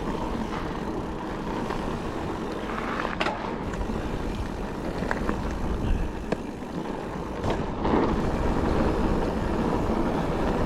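Calibre Triple B mountain bike riding a dry, loose dirt trail: steady tyre roar and wind rumble on the microphone, with short knocks and rattles from the bike over bumps.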